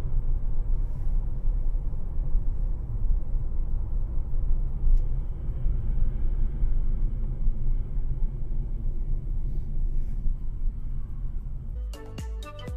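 Low, steady rumble of a vehicle on the move, heard from inside the cab: engine and road noise. Near the end, music with a sharp beat cuts in.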